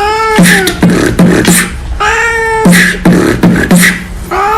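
Beatbox rhythm of low kicks and hissing snare-like hits, broken three times, about two seconds apart, by a long meow-like vocal call that rises then falls in pitch.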